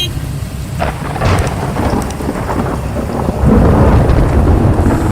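Thunder in a heavy rainstorm: a sharp crack about a second in that builds into a loud, low rumble, over steady rain.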